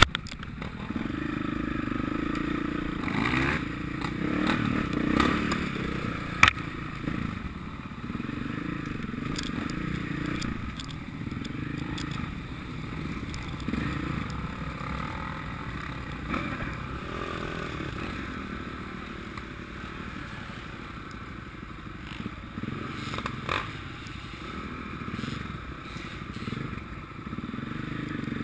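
Motocross motorcycle engines running and revving, the sound rising and falling as the bikes come and go, with a sharp knock about six seconds in.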